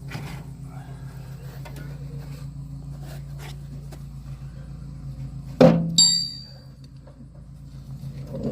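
A steady low hum with an even pulse runs underneath. About five and a half seconds in comes a loud knock, followed at once by a metallic clink that rings briefly.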